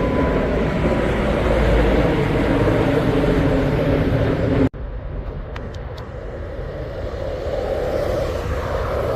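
Loud, steady rumble of jet airliner engines. It cuts off abruptly about halfway through, then a quieter rumble builds again.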